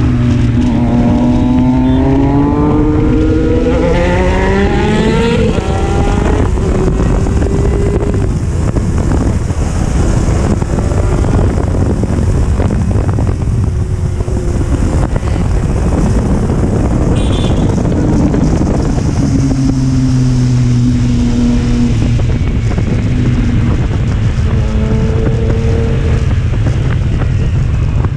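Triumph Street Triple's inline-three engine pulling up through the revs in a rising note over the first few seconds, then a steady rush of wind and road noise while riding. The engine note comes through again, lower and steadier, about two-thirds of the way in.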